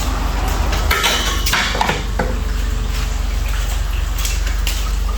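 A few sharp metallic clinks and rattles about a second in, over a steady low hum.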